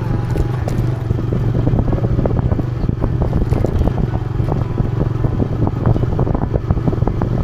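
TVS Raider 125's single-cylinder engine running steadily, with frequent rattles and knocks as the motorcycle rides over a rough off-road trail.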